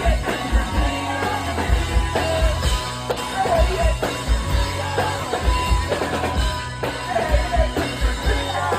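Live rock band playing loudly: drum kit with repeated kick-drum hits, guitars and bass, with a wavering melody line over the top.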